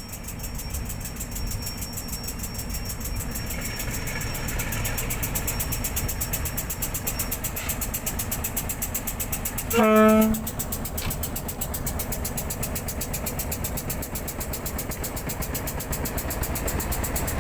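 Electric commuter train pulling out of a station, its running noise slowly growing louder. About ten seconds in, one short horn blast lasting about half a second is the loudest sound.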